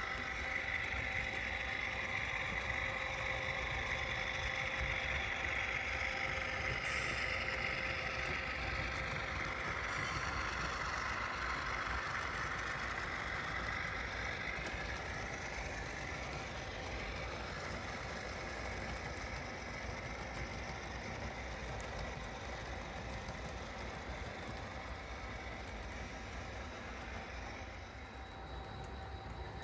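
HO scale model train running steadily along the track, its motor and wheels giving a continuous mechanical running sound.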